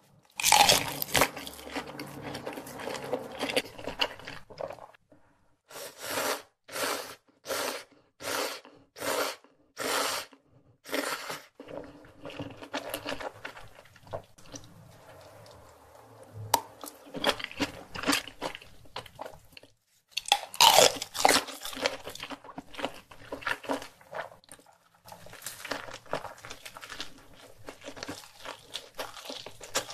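Close-up mouth sounds of eating: a loud bite into a sausage, then chewing, with a run of about nine even chewing strokes, a bit under two a second, in the middle. A second loud bite comes about twenty seconds in, followed by more chewing.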